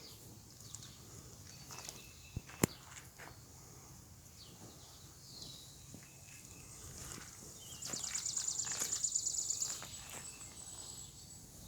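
Outdoor footsteps with scattered small clicks and one sharp click a few seconds in. About two-thirds of the way through, a fast, high-pitched pulsing trill sounds for about two seconds and is the loudest thing heard.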